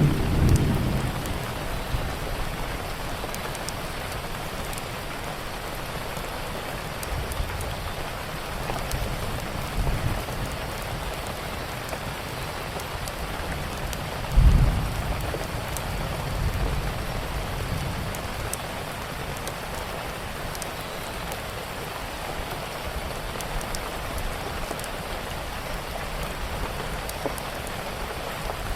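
Steady rain on a surface with low rolls of thunder. About halfway through comes a sharper thunderclap that rumbles on for a few seconds. Faint wood-fire crackles tick now and then under the rain.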